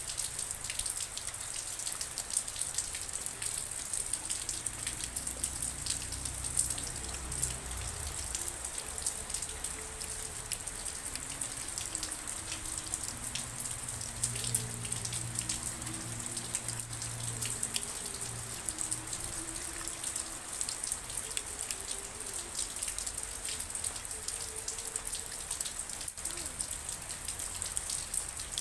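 Steady rain, with many individual drops ticking on a surface over a constant hiss. A faint low hum comes in around the middle.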